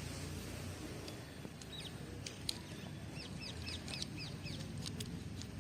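A bird chirping in a quick series of short high notes for a couple of seconds, over a steady low outdoor rumble with a few sharp clicks.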